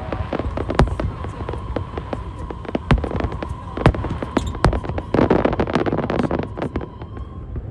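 Aerial fireworks bursting in a fast, irregular series of sharp bangs, with a patch of crackling about five seconds in.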